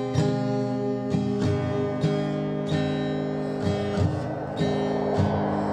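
Acoustic guitar strumming chords at an even pace, an instrumental passage between the sung lines of a children's song.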